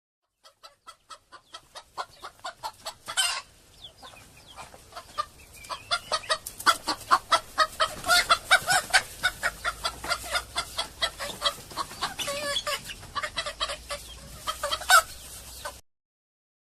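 Chickens clucking in quick succession, about five short calls a second, with a longer, louder call about three seconds in and another near the end. The sound cuts off suddenly.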